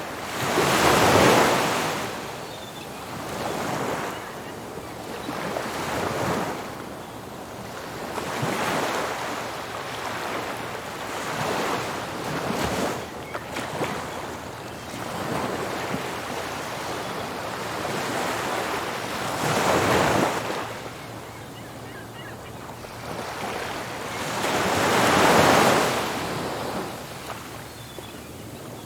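Ocean surf breaking on a beach, wave after wave, each one a rushing swell of noise that fades away. The biggest breakers come about a second in, about two-thirds of the way through and near the end, with smaller ones in between.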